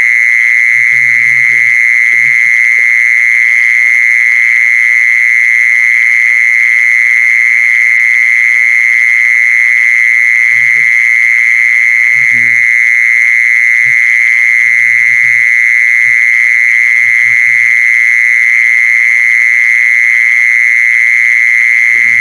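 A cricket calling in one loud, unbroken trill, a steady high tone with no pauses. Faint, brief voices are heard now and then underneath.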